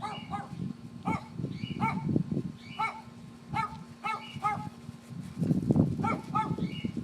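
Dogs play-fighting: runs of short, high yips come several times a second, with rough low growling and scuffling noise around the second second and again near the end.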